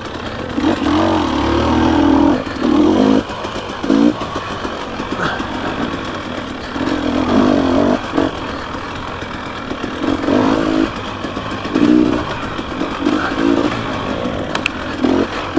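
Dirt bike engine revving in short bursts as the throttle is opened and closed over and over, the note rising and falling every second or two.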